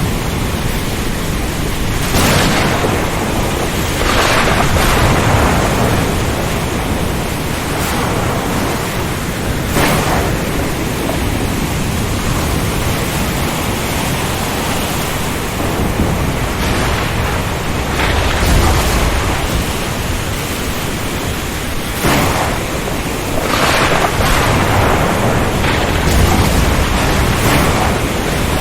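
Storm at sea: a continuous loud rush of wind, rain and surf, rising in repeated surges, with low rumbles of thunder a little past halfway and again near the end.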